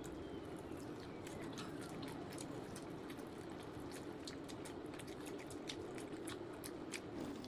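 Close-up eating of roasted tandoori chicken: chewing and biting into the meat, heard as many small, irregular wet clicks and smacks.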